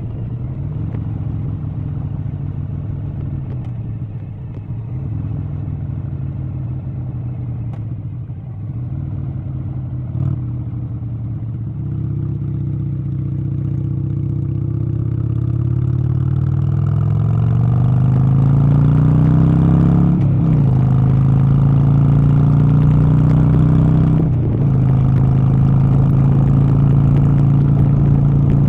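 An engine running, its pitch climbing steadily for several seconds about halfway through and then holding level, with two brief breaks in the sound late on.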